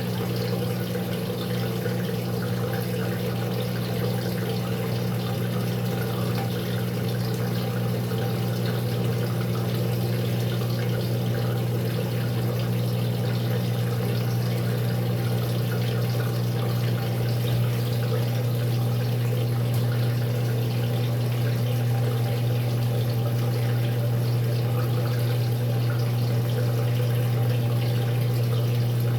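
Maytag MVWX655DW1 top-load washer in its tub-clean cycle, water rushing with a steady low electrical hum from the machine's pump or water valve. The sound holds even throughout, growing very slightly louder toward the end.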